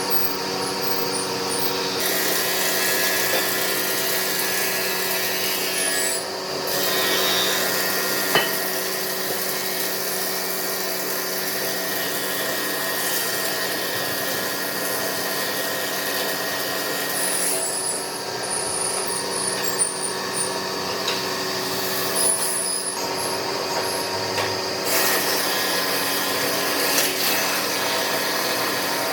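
Wood lathe running with a steady motor hum while a turning tool cuts and scrapes the spinning epoxy-and-wood blank. The cutting noise eases off briefly a few times.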